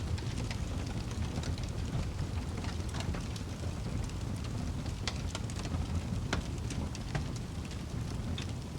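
Wood fire crackling in a fireplace: a steady low rush with scattered sharp pops and snaps.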